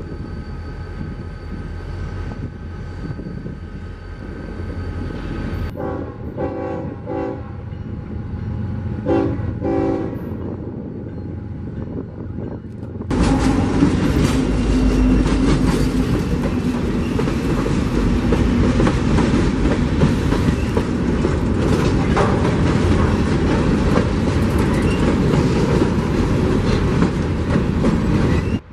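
Freight train rolling by, with short train-horn blasts in two quick groups about six and nine seconds in. About thirteen seconds in, a much louder train passes close, its wheels clacking over the rail joints.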